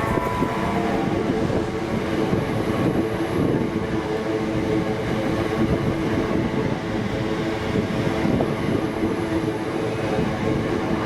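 Passenger train running at a station platform: a steady, continuous drone of several held tones over a dense rumble.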